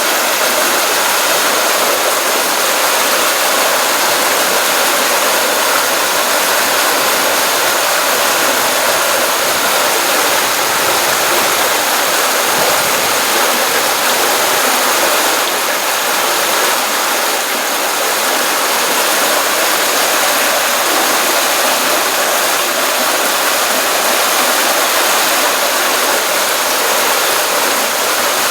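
Running water from a pond stream, a steady, even rushing with no pauses.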